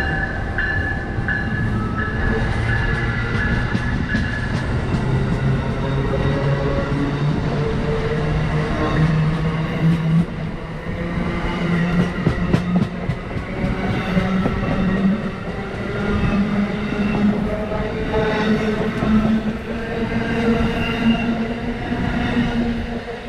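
A train running close by, its motor hum rising steadily in pitch as it gathers speed. Around the middle there are sharp wheel clicks over the rail joints.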